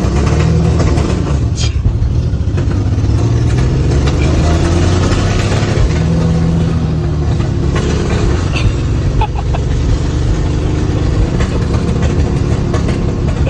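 1985 Nissan 300ZX (Z31) V6 with a loud exhaust, driven hard: the engine pitch climbs and drops back several times as it accelerates through the gears, heard from inside the car.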